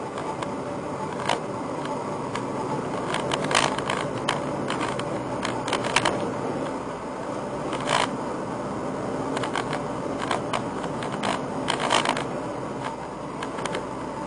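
Nissan GT-R (R35) running, a steady mechanical hum and hiss with a scatter of sharp clicks and light ticks, densest around the middle and again near the end. The abnormal noise the car had is reported cured.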